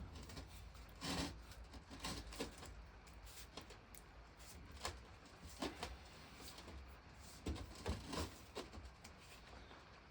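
Scattered light knocks, clicks and scrapes of a water pump's parts being worked on its shaft by hand while a stuck piece is freed, coming irregularly, a few louder knocks about a second in and around eight seconds in.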